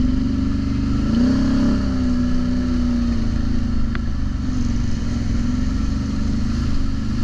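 ATV engine running under throttle, its pitch rising about a second in and then easing up and down.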